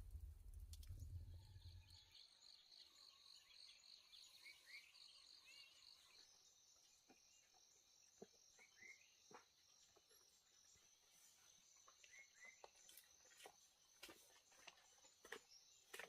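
Faint forest background: insects chirping in a steady high pulsing trill, with a few short bird chirps and scattered light clicks.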